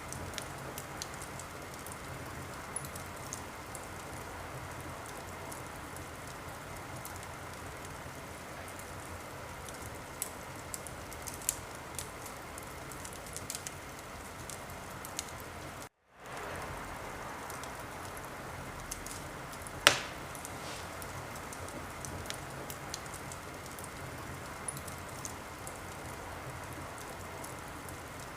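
Wood fire in a fireplace crackling: a steady hiss with scattered small pops and one loud pop about twenty seconds in. The sound cuts out for a moment about sixteen seconds in and fades back.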